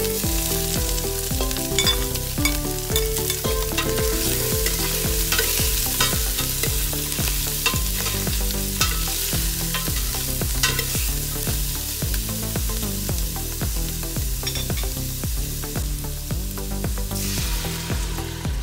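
Shredded meat and giblets sizzling in a hot stainless steel pot as they are sautéed with onion and stirred, with clicks of the spatula against the pot. Background music with a steady beat plays throughout. Near the end, water is poured into the pot.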